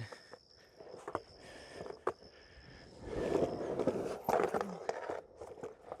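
Skateboard wheels rolling over the bowl's surface, with a few sharp knocks; the rolling gets louder from about three seconds in.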